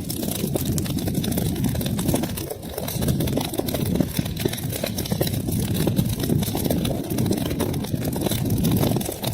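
Wood fire burning in a fireplace: a steady low rumble of flames with many small, sharp crackles and pops scattered throughout.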